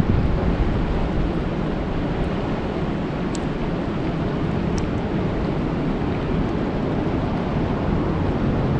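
Rain falling steadily on a lake: an even rushing noise, deepest in the low end, with a few faint sharp ticks from single drops.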